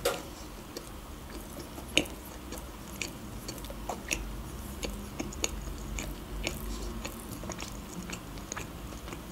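Close-miked chewing of a mouthful of burger: soft, irregular wet mouth clicks, with a louder click at the start and another about two seconds in.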